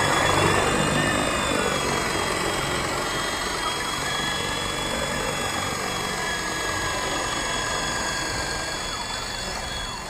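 WLtoys V913 brushless RC helicopter flying: a steady high-pitched motor whine over the rotor's noise, its pitch wavering slightly.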